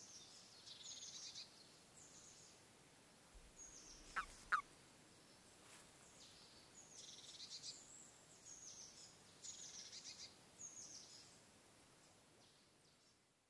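Faint songbirds singing short, high phrases again and again, with two short sharp sounds a fraction of a second apart about four seconds in, the loudest moment. The birdsong fades out near the end.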